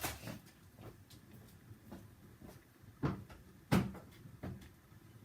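A few separate knocks and clunks, the loudest about three to four seconds in, like a cupboard or door being handled.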